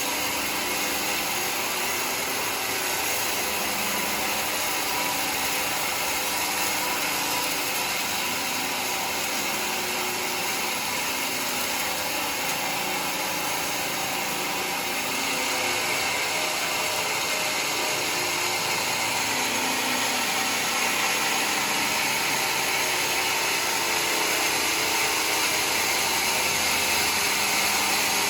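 Sawmill running steadily and sawing through mahogany wood, growing somewhat louder and brighter from about halfway through.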